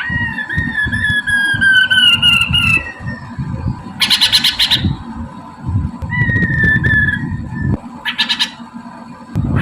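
Poksay mandarin (a laughingthrush) singing: long, slowly falling whistled notes broken by short, harsh, rapid chattering bursts.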